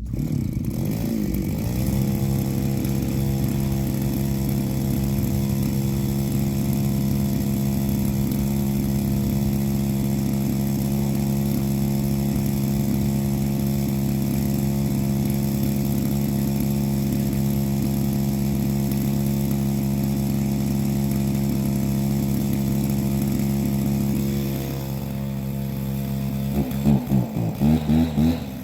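Two-stroke chainsaw revving up about two seconds in and held at steady full throttle through a long cut, the back cut from the side opposite the felling notch of a large tree. Near the end the engine drops to a lower speed and is blipped several times.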